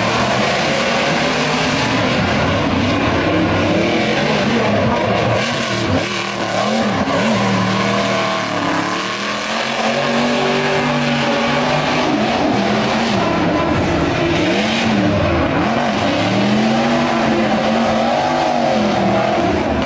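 Drift car engine rumbling through an ORD aftermarket race exhaust, revved up and down over and over so that its pitch swings repeatedly, over a steady hiss of tyre squeal.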